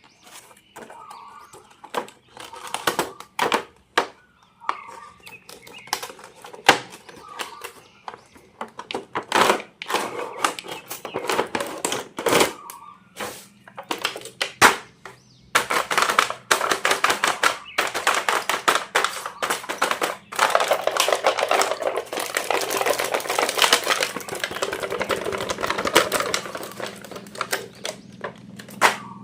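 Plastic toy packaging being handled and unwrapped: scattered clicks and taps, then dense crinkling from about halfway through.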